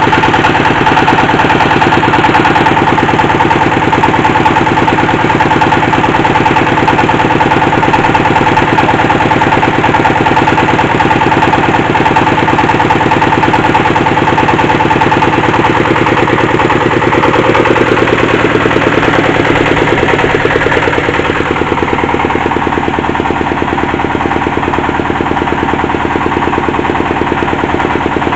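Engine of a hydraulic well-drilling machine running steadily with a fast, even chugging. Its sound changes and drops a little about three-quarters of the way through.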